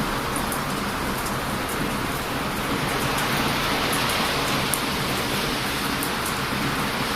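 Heavy ocean surf washing steadily onto a beach. Scattered faint crackles and pops come from a wood bonfire burning close by.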